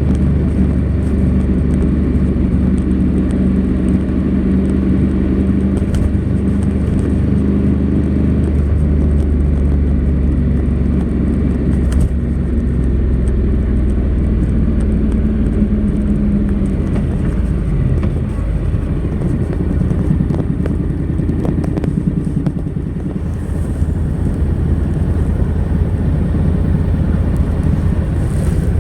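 Honda NC700X's 670 cc parallel-twin engine running on the stock exhaust while riding, a steady engine note that drops in pitch a little past halfway.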